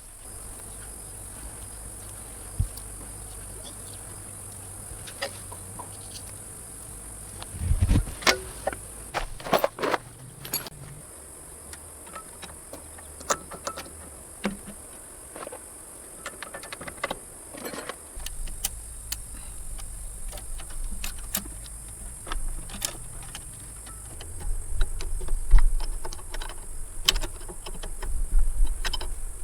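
A steady, high insect drone, like crickets or cicadas, with scattered clicks and knocks throughout, busiest about a third of the way in and again near the end.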